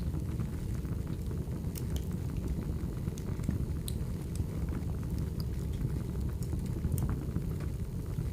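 Firewood burning: a steady low rush of flame with scattered sharp crackles and pops.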